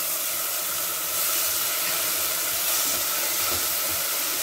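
Tomato purée sizzling in a hot pan of fried onions and spices, a steady hiss. A wooden spatula begins stirring near the end.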